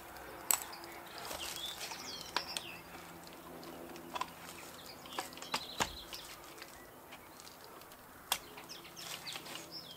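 Small birds chirping in the background, with a few sharp clicks and knocks scattered through.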